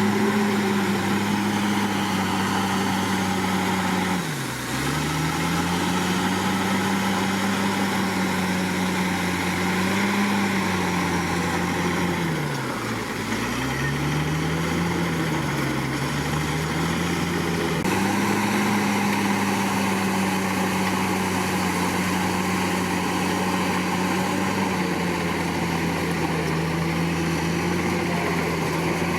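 Komatsu D61PX bulldozer's diesel engine running at a steady pitch. Its engine speed sags sharply twice, a few seconds in and again about halfway through, recovering each time, with smaller rises and falls between.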